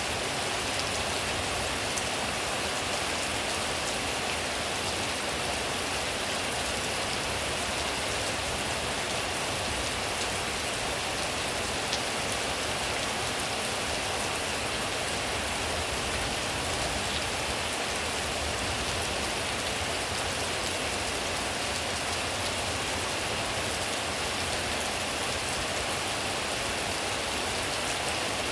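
Steady rain falling, an even hiss with occasional single drop ticks.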